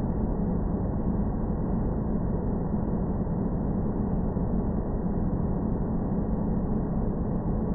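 Sci-fi space-planet ambience: a steady, dark, low rumbling drone with a deep hum underneath, unchanging throughout and with no distinct events.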